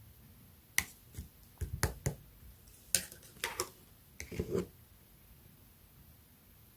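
Orange clear slime being pressed and worked by hand, giving a series of sharp clicks and squishy pops from about a second in until just under five seconds, then quiet room tone.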